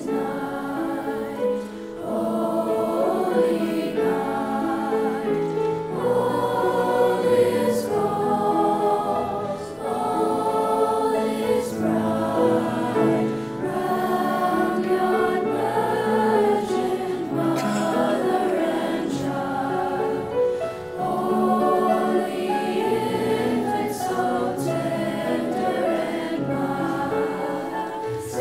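Chorus singing in harmony, in long held notes that move from chord to chord.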